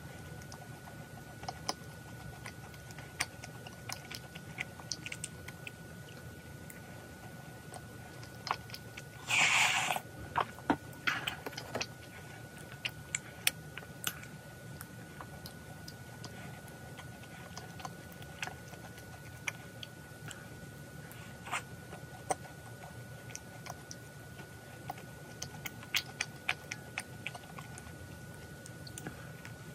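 Close-up eating sounds of macarons being bitten and chewed: many small scattered mouth clicks, with one louder crunchy burst about a third of the way in and a few sharper crunches after it.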